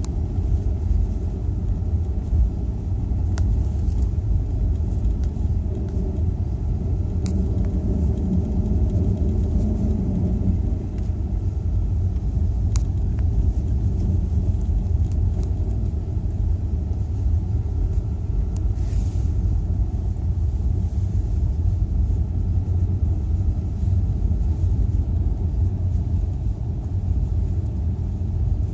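Car driving along a road: a steady low rumble of tyre and engine noise, with a few faint ticks.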